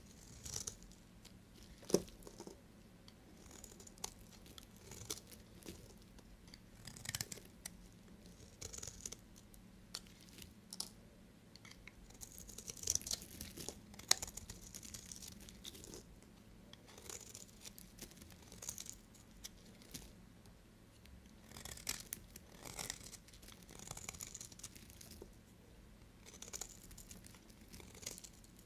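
A knife cutting bars of soap in repeated short scraping strokes, about one every second or two, with a few sharp clicks, the loudest about two seconds in.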